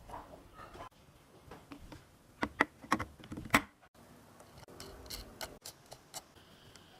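A series of sharp clicks and light knocks, bunched together about two and a half to three and a half seconds in, with a few fainter ticks later.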